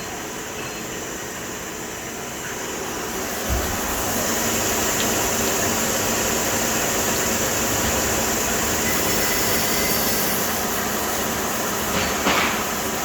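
CNC lathe running a machining program on a hard-steel thrust washer blank: the spindle turns and the tool takes roughing cuts. About three and a half seconds in there is a knock and the machine gets louder, with a steady hiss of cutting, and there is another short knock near the end.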